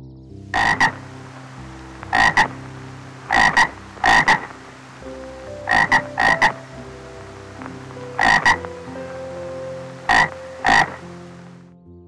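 Short croaking animal calls, each a quick double pulse, repeated about nine times at irregular one- to two-second intervals over a steady hiss.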